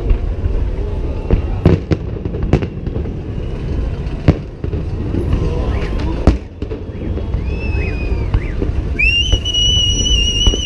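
Fireworks display: shells bursting in a series of sharp bangs at uneven intervals over a continuous low rumble. Near the end a high, steady whistle is held for nearly two seconds.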